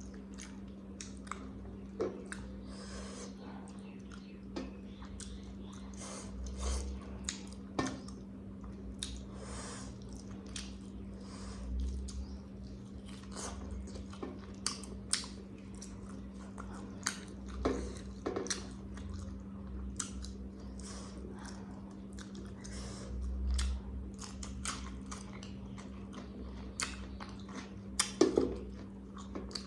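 A person chewing and biting food close to the microphone, with many short wet clicks and smacks and a few soft low thumps, over a steady low hum.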